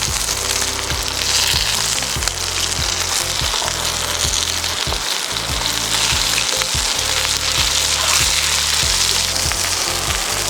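Pieces of trout deep-frying in hot oil: a steady, crackling sizzle.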